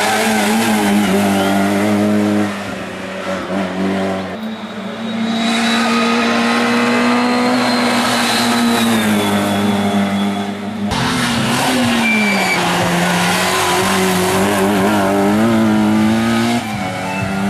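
Racing car engine running hard at high revs, its pitch dipping and climbing again several times. The sound changes abruptly twice, about four and eleven seconds in.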